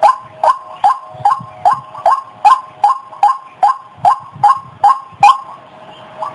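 White-breasted waterhen (ruak-ruak) calling: a rapid string of short, sharp, downward-sliding notes, about two and a half a second, which stops a little after five seconds in. It is the call used as a lure for the bird.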